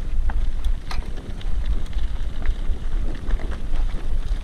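Vehicle driving over rough ground: a steady low rumble with wind buffeting the microphone and scattered knocks and rattles.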